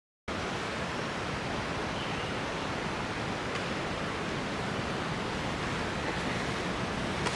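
Steady rushing of ocean surf with wind, starting abruptly just after the start and holding an even level.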